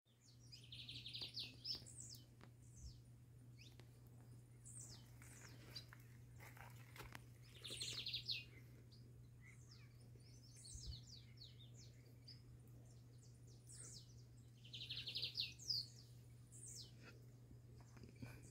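Wild birds singing faintly, with many short high chirps; one song with a fast rattling trill comes three times, about seven seconds apart.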